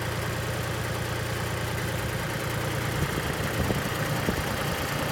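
Mitsubishi MTE2000 compact tractor's diesel engine running steadily. About three seconds in it turns rougher and slightly louder, with a few sharp knocks.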